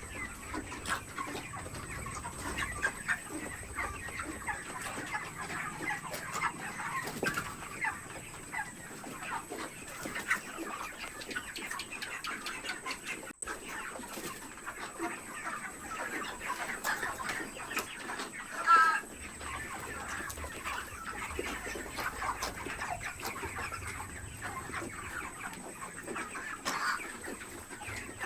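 A large flock of chickens in a poultry house clucking and chattering continuously, with one louder squawk about two-thirds of the way through.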